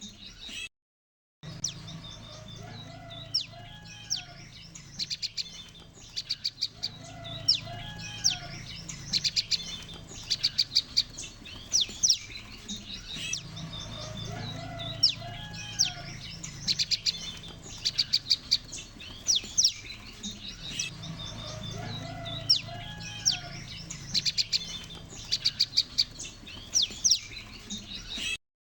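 Looped lure recording of a flock of prenjak lumut (prinias) calling: rapid trains of high, dry chipping notes over lower warbling notes and a steady low hum, the same pattern recurring about every six seconds. The sound drops out briefly near the start and again near the end.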